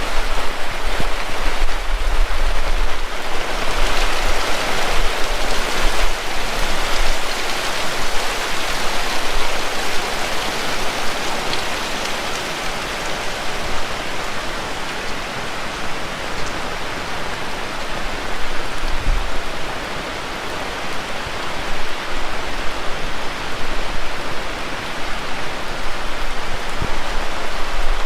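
Heavy rain falling steadily, a dense even hiss of drops striking the ground and surfaces, easing slightly midway and building again near the end.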